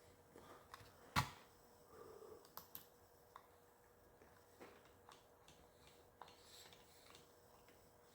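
Near silence: room tone with a handful of faint, sharp clicks, the sharpest about a second in.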